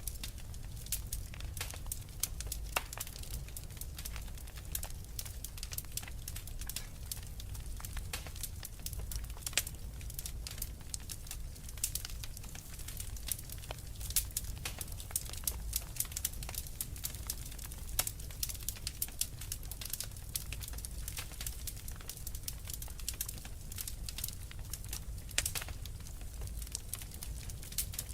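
Wood fire crackling in a fireplace: many sharp pops and snaps at irregular intervals over a steady low rumble.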